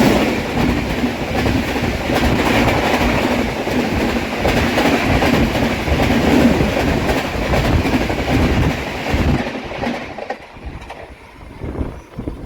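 An opposing express train passing close alongside a moving coach: a loud rush of wind and wheels clattering over rail joints. About ten seconds in it cuts off as the last coach goes by, leaving the quieter running of the coach itself.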